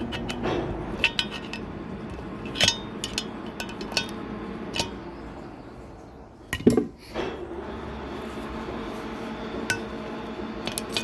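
Hand tools and small metal engine parts clinking and tapping as a cylinder head is worked on, with one heavier knock about two-thirds of the way through. A steady low hum runs underneath.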